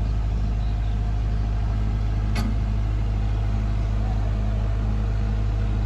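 Sonalika DI-35 RX tractor's diesel engine running steadily, a low even drone, with one sharp click about two and a half seconds in.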